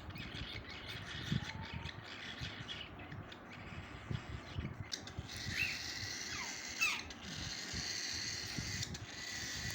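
Pet birds being hand-fed watermelon: soft irregular crackling and rustling of eating, then, from about halfway, a few short chirps that slide down in pitch over a faint steady high tone.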